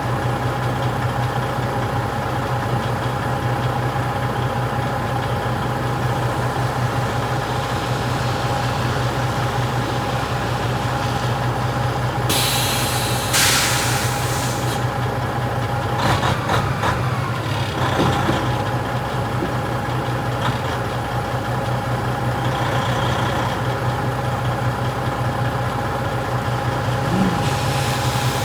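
Heavy truck engine running steadily at low speed. About halfway through there are two short bursts of air-brake hiss, followed by a few knocks.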